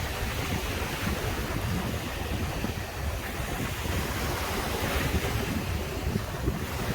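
Caribbean sea waves breaking and washing onto the beach, a continuous surf that swells about a second in and again around five seconds in. Wind buffets the microphone with a low rumble underneath.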